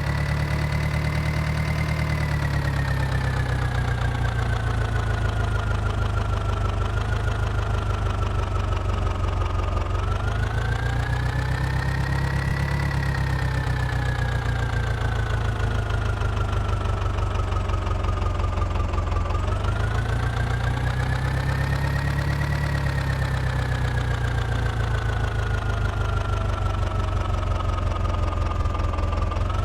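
Mahindra tractor's diesel engine running, its speed picking up quickly and then sagging slowly over several seconds, a cycle that repeats about every nine or ten seconds.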